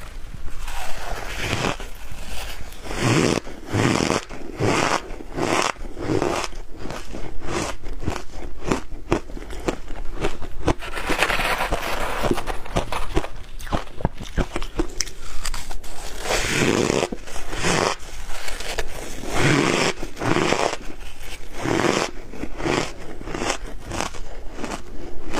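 Hard ice being bitten and chewed, crunching and crackling close to the microphone in a continuous, irregular run of crunches.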